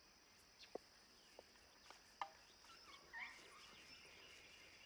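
Faint swamp ambience: a steady high insect drone, with a few scattered short chirps and clicks.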